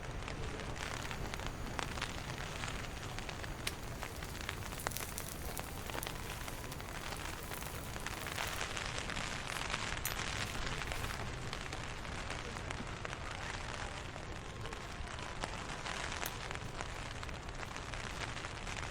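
Heavy rain falling on a surface: a steady hiss of rain with many scattered sharp drop ticks, swelling briefly about halfway through.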